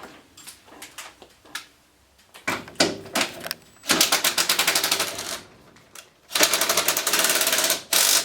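Small cordless impact driver hammering in two loud bursts of about a second and a half each, after a few scattered clicks, as it runs down the door hinge bolts. It is a rapid, even rattle that is pretty noisy.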